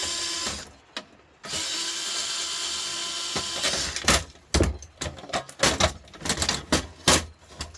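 Cordless drill-driver running steadily, backing screws out of a George Foreman grill's casing. It stops about half a second in, then runs again for about two seconds. After that come a series of sharp clicks and knocks as metal parts are handled.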